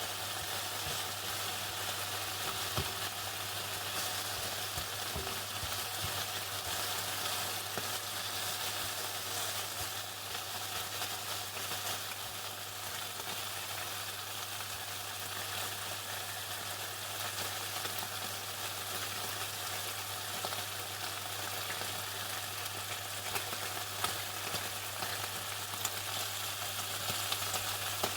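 Chicken frying in hot oil: a steady, dense crackling sizzle full of tiny pops, over a steady low hum.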